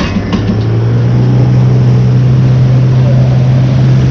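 An engine running steadily at one low, unchanging pitch, over a constant noisy hiss.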